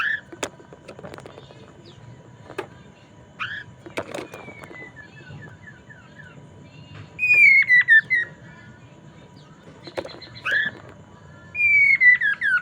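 A poksay mandarin singing: two loud phrases of quickly repeated falling whistled notes, about seven seconds in and near the end, with short single calls and sharp clicks in the quieter stretches between.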